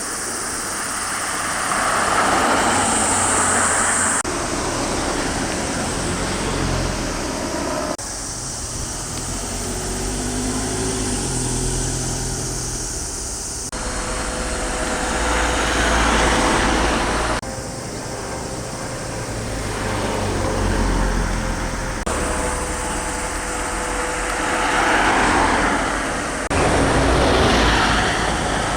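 Road traffic: cars driving past one after another, their tyre and engine noise swelling and fading, in short clips joined by abrupt cuts. No sirens.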